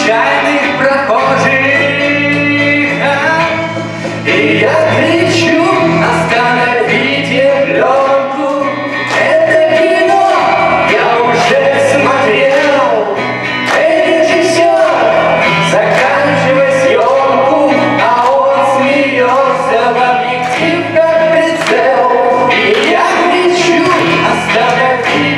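A man singing a song with loud, steady musical accompaniment.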